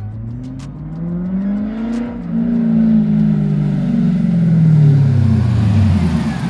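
Stock 5.7 L LS1 V8 of a C5 Corvette running without mufflers, through long-tube headers, cats and an X-pipe. It accelerates with the pitch climbing for about two seconds, then the pitch falls slowly as the car gets louder and closer.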